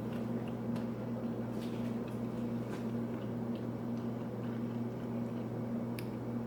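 A person eating a steak pita sandwich: small soft clicks and squishes from biting and chewing over a steady low hum.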